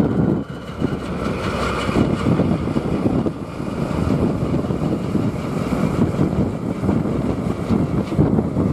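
Strong blizzard wind buffeting the microphone: a loud, gusty, low rumble that rises and falls throughout.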